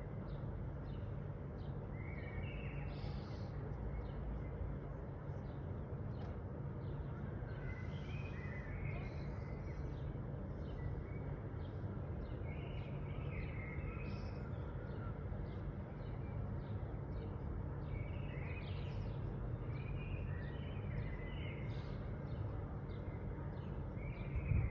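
Birds chirping and calling in short, scattered notes, over a steady low background rumble.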